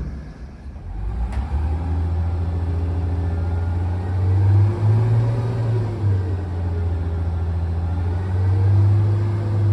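A heavy diesel engine comes up to speed about a second in and runs steadily, its revs rising and falling twice, as a crane's engine does under load while lifting.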